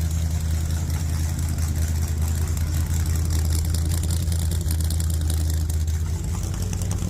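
1987 Ford F-150's engine idling steadily through a newly made custom dual exhaust, the pipes still without tips: an even, low rumble.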